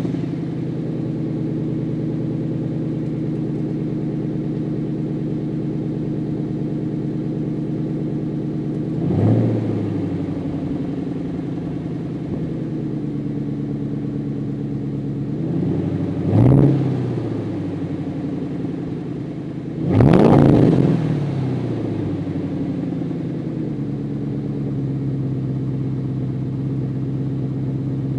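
2001 Ford Mustang GT's 4.6-litre V8 idling through a Magnaflow exhaust, just after a start. It is revved briefly three times, at about nine, sixteen and twenty seconds in; the third rev is the loudest and longest, and each one drops straight back to idle.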